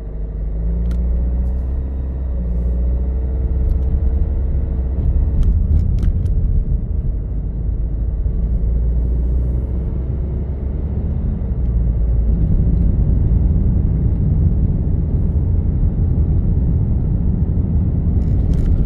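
Vehicle driving on a road: a steady low rumble of engine and tyres, with an engine tone that wavers up and down in pitch during the first few seconds.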